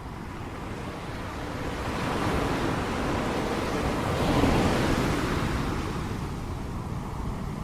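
Ocean waves crashing on the shore. One wave swells up, breaks loudest about four and a half seconds in, then washes back down to a steady rush.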